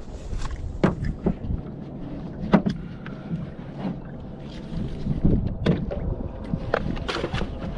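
Irregular knocks and thumps on a small boat as gear and people shift aboard, over a low steady rumble of wind or water.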